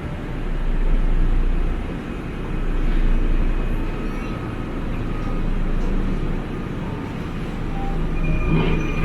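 A Tokyu Setagaya Line tram running, a low rumble that swells and fades. Near the end comes a burst of rattling clatter with a high steady tone.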